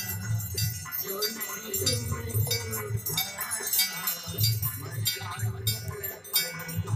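Hand-rung brass aarti bells and cymbals clanging rapidly over a steady drum beat and devotional singing: the music of a Hindu aarti ritual.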